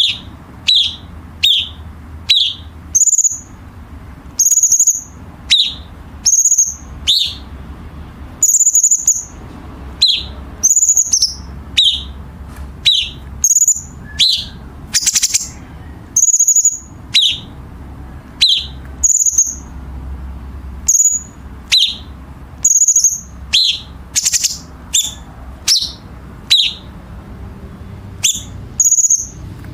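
Cucak cungkok calling over and over, a sharp, harsh note about once a second, some lower and some higher. Two brief rattling trills come in, one midway and one near the end.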